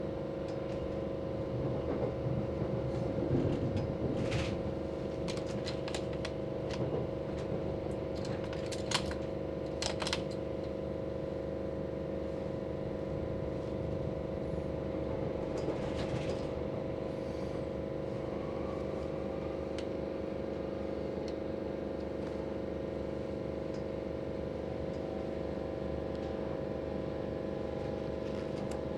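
Electric passenger train running at speed, heard from inside the carriage: a steady hum of motor tones over rolling noise, with a few sharp clicks in the first ten seconds.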